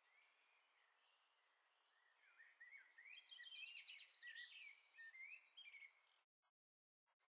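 A songbird singing faintly, a quick run of varied chirps and trills, over a soft steady hiss of outdoor ambience. The sound cuts off abruptly to dead silence near the end.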